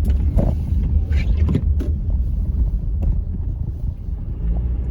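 Car driving on a snow-covered road, heard inside the cabin: a steady low road and engine rumble, with a few soft knocks in the first couple of seconds.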